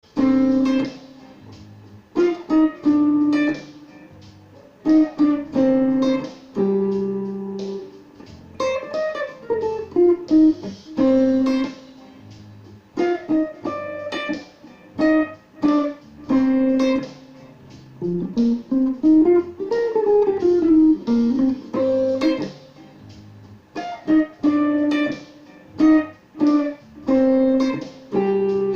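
Electric guitar played through a Line 6 POD HD300 effects processor on a chorus setting: short picked phrases with gaps between them, and note runs that step down the neck about ten seconds in and climb then fall back about two-thirds of the way through.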